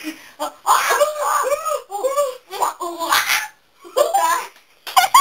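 Girls laughing hard in several bursts of high, rising-and-falling laughter, with short pauses for breath between them.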